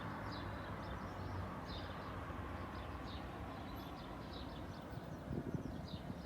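Small birds chirping in short, high, repeated calls over the steady hum of distant car traffic, with a few brief low knocks near the end.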